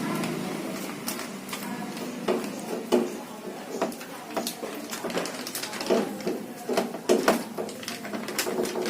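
Irregular clicks and light knocks of washing-machine parts being handled during a repair, a few sharper knocks around the middle and later on.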